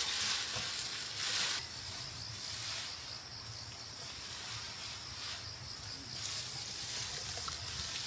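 Rustling of rice stalks being handled in the field, with a few louder swishes, two of them in the first second and a half.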